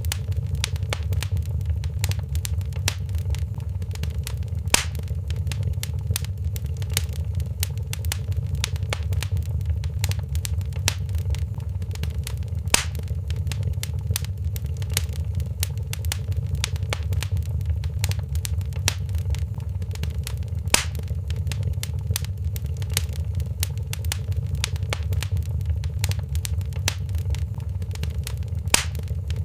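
Wood fire crackling in a fireplace: a steady stream of small clicks and snaps over a low, even rumble, with a louder pop about every eight seconds, four in all.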